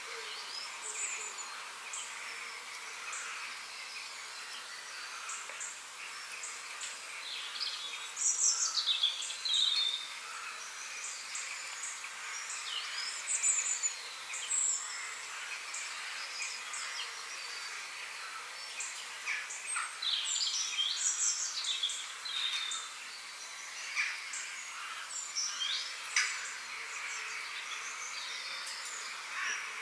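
Forest birdsong over a steady insect-like hum: many short chirps and sweeping whistled notes from several birds, with livelier bursts of song about a quarter and two-thirds of the way through.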